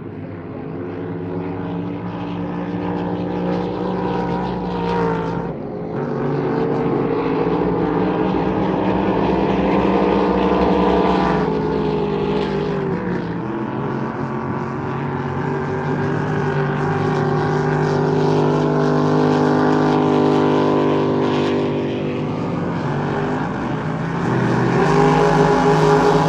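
Motorboat engines running hard in a race, their pitch dipping and rising again several times, growing louder over the first ten seconds.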